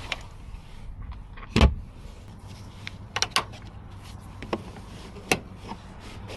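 Scattered sharp clicks and knocks of objects being handled, with one heavier thump about one and a half seconds in and a quick double click near the middle.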